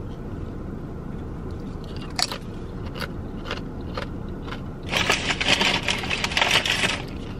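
A homemade tortilla chip dipped in queso being bitten and chewed: a few separate crunches, then about two seconds of dense, loud crunching near the end, over a steady low hum.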